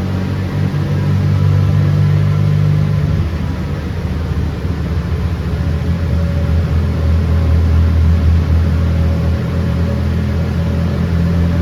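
Toyota 20-valve four-cylinder engine swapped into a Toyota Tazz rally car, running with a deep, steady exhaust note whose pitch shifts a couple of times.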